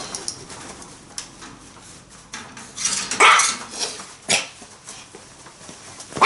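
Dog barking: one loud bark about three seconds in, a short sharp one a second later, and another at the very end, with light clicking and clattering around them.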